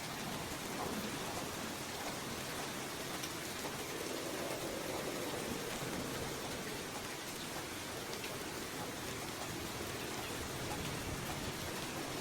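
Steady light rain falling and pattering on surfaces, an even hiss with scattered drop ticks and no thunder.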